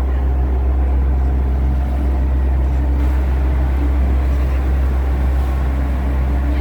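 Boat engine running at a steady pace, a constant low drone with a steady hum above it.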